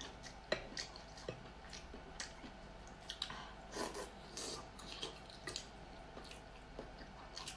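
Close-miked eating sounds: a person biting into and chewing braised pork, with irregular wet smacks and small clicks several times a second.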